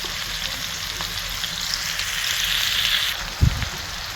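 Onions and chicken thighs sizzling in rendered bacon grease in the pot, a steady frying hiss that swells for a moment and eases about three seconds in. A single short low thump comes about three and a half seconds in.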